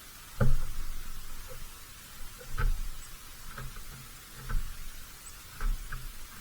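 Irregular knocks and thumps close to the microphone, as of an animal moving on a bird feeder, with the loudest about half a second in and several weaker ones after.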